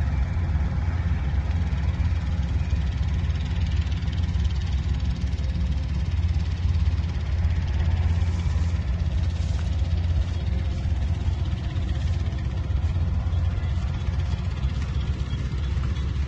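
Engine of a machine running steadily with a low, unchanging hum.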